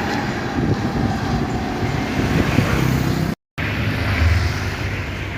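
Truck engine running amid road traffic noise, with a brief dropout where the sound cuts out about three and a half seconds in.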